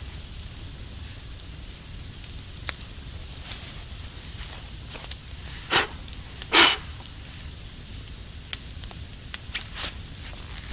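Wood campfire burning, crackling with scattered sharp pops, and two louder pops a little past halfway.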